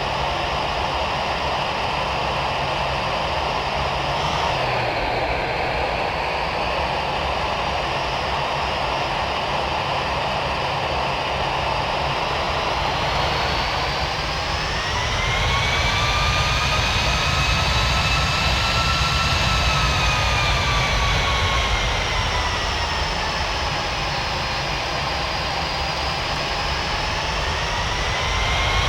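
Boeing 737 MAX 9's CFM LEAP-1B jet engines heard from the cabin: a steady rumble and hiss, with an engine whine that rises about halfway through, falls again, and climbs once more near the end as thrust is changed.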